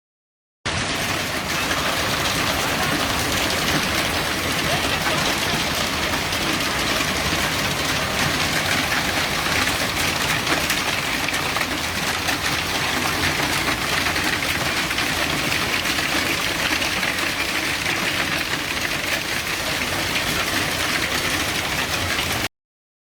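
Steady heavy rain, an even hiss that starts just under a second in and cuts off abruptly near the end.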